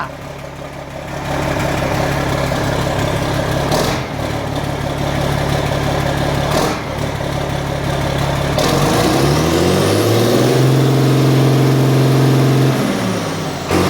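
Vehicle engine idling steadily, then revved up about nine seconds in, held at higher revs for a couple of seconds, and let fall back toward idle near the end.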